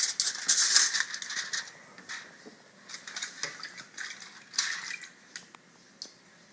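Tin foil boat crinkling and rustling as it is handled, dense for the first two seconds, then thinning to scattered light clicks and taps.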